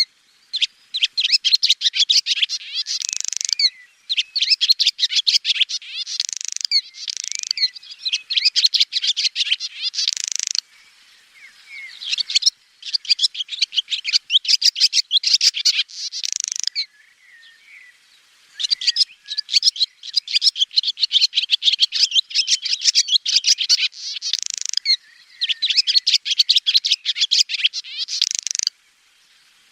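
Swallow singing: long runs of rapid, high twittering chirps in phrases of several seconds, broken by short pauses.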